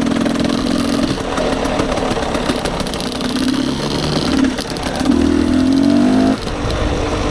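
Dirt bike engine running along a trail at varying throttle, revving up with a rising pitch about five seconds in, then the throttle is shut off abruptly just after six seconds.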